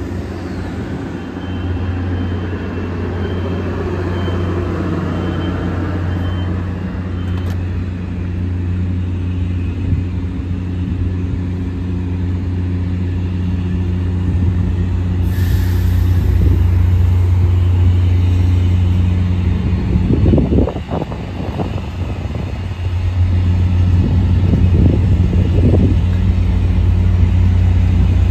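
Metrolink commuter train moving along the platform: the diesel locomotive's engine gives a steady low drone, with the rumble of the bi-level cars rolling by. It grows louder as the locomotive draws near, with a couple of brief louder surges in the last third.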